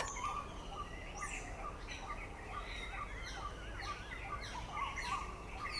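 Faint birds chirping and twittering: many short sweeping chirps and quick up-and-down warbling trills, with no call standing out above the rest.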